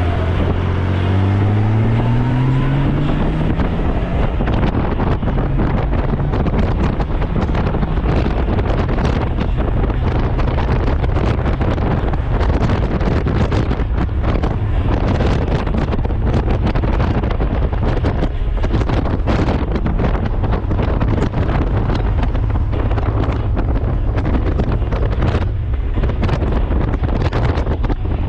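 Honda Gold Wing motorcycle accelerating, its engine note rising over the first few seconds, then cruising steadily with heavy wind noise on the microphone.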